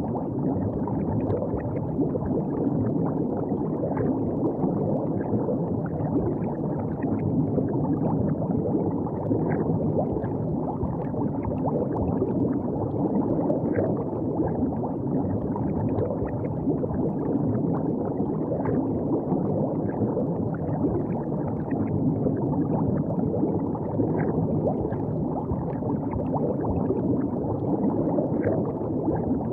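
River water flowing and gurgling steadily, with small splashy crackles over a low, even rush.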